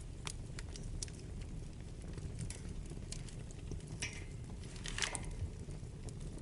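Wood fire burning in a fireplace: a steady low rumble of flames with scattered sharp crackles and pops from the burning logs, a few louder crackles about four and five seconds in.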